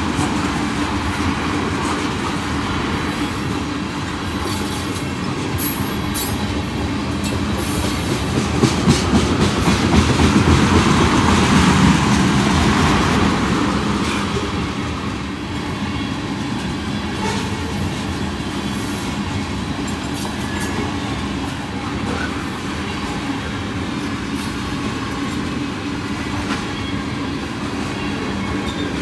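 A freight train of tank cars rolling past, a steady rumble of steel wheels on rail with a clickety-clack over the joints. It swells louder for a few seconds around the middle.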